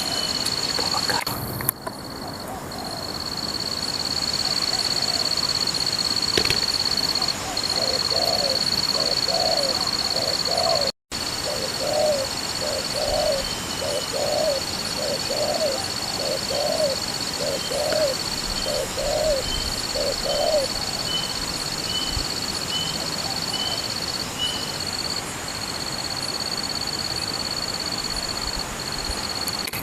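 Spotted doves cooing: a long run of short, evenly repeated low coos, over a steady high-pitched drone that runs through the whole stretch.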